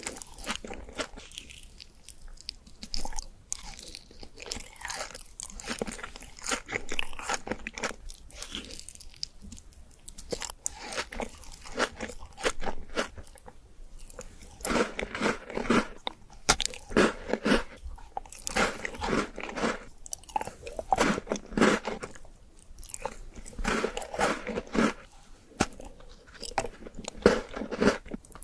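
Close-miked biting and chewing of sweet desserts: many short, irregular mouth and food sounds, denser and louder in the second half.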